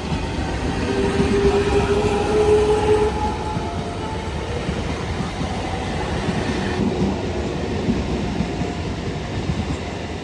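A train running past on the track: loud, dense rumbling with a steady pitched tone over it for about two seconds near the start, the noise slowly fading toward the end.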